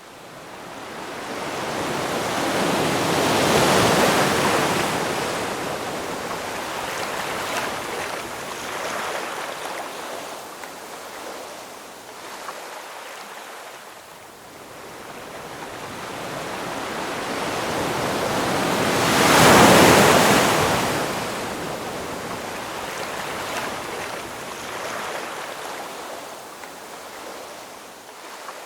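Ocean waves breaking on a shore, the surf noise swelling and fading; two large waves crash about four seconds in and near twenty seconds in, with smaller wash and foam between.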